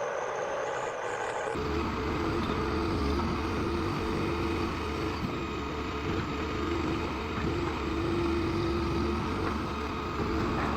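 Diesel engine of a timber-loaded forestry forwarder running steadily under load. About a second and a half in the sound changes abruptly to a deeper engine note with a strong low rumble.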